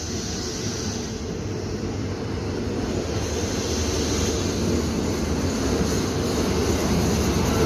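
Passenger train running, a steady low rumble with a hiss on top, growing slowly louder.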